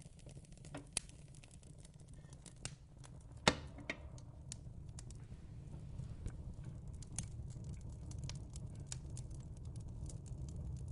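Fire crackling: scattered sharp pops and snaps over a low steady rumble, with one louder pop about three and a half seconds in.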